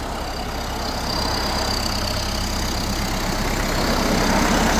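Kubota L1501 compact tractor's diesel engine idling steadily, growing slightly louder, with a faint high-pitched whine over it.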